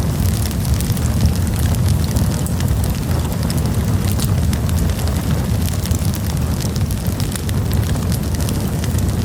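Campfire burning: a steady low rumble of flames under frequent sharp crackles and pops from the burning wood.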